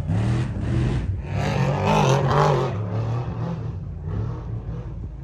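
Off-road race truck engine revving hard as the truck passes, rising and falling in pitch, then fading as it moves away.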